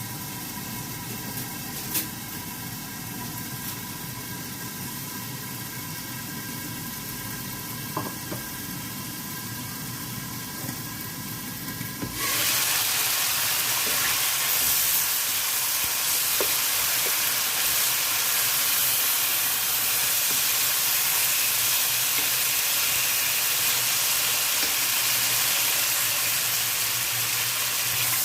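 A steady hum with a couple of clicks, then, about twelve seconds in, food hitting a hot oiled pan and sizzling loudly and steadily as it fries.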